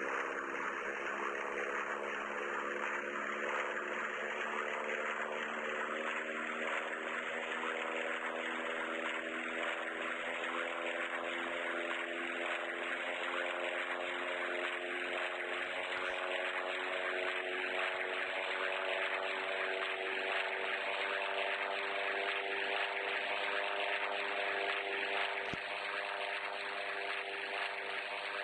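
Aircraft engine running steadily: a droning hum with a hissing roar over it and a high whine that climbs slowly in pitch.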